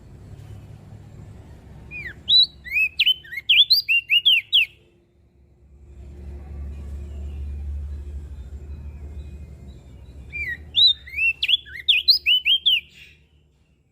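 Crested white-eye (opior jambul) singing two bursts of quick, sweeping whistled notes, each about two and a half seconds long, over a low rumble.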